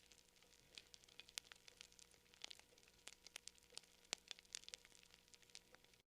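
Campfire crackling: irregular sharp pops and snaps over a low hiss, cutting off suddenly near the end.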